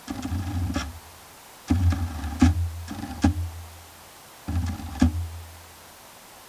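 Electronic background music: short synth phrases over a deep bass note with sharp drum hits, coming in bursts of about a second with brief pauses between them.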